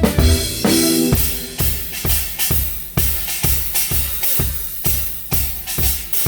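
Band playing a rehearsal take: a drum kit keeps a steady beat of kick and snare, about two hits a second, with bass and guitar notes sounding only in the first second.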